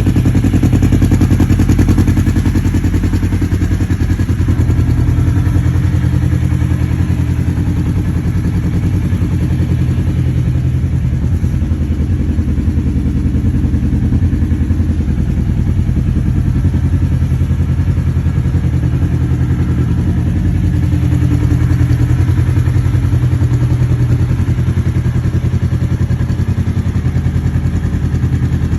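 Kawasaki KRX1000 side-by-side's parallel-twin engine idling steadily through a Graves aftermarket exhaust.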